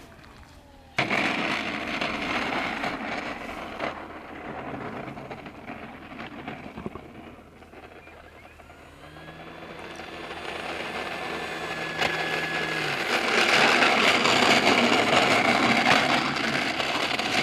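Wind rushing over the microphone, starting abruptly about a second in and strongest near the end, with the whine of an electric RC model plane's motor and propeller rising and fading in the middle.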